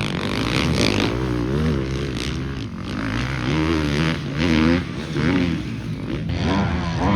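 Motocross bike engines revving hard on a practice track, pitch climbing and dropping again and again as the riders shift and work the throttle through the course, with more than one bike heard at once.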